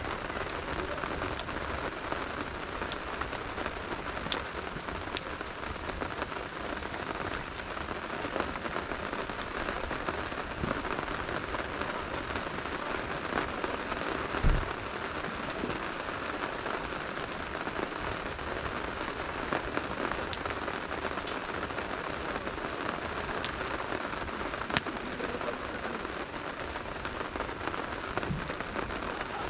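Steady rain falling, with scattered sharp pops from a campfire burning in the rain. A single low thump about halfway through is the loudest moment.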